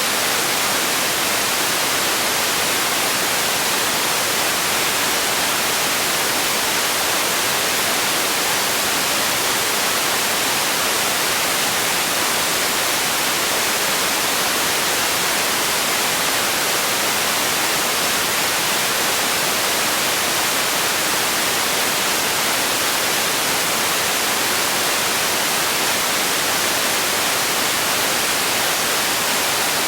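Steady white noise: an even, unchanging hiss with most of its energy in the high range.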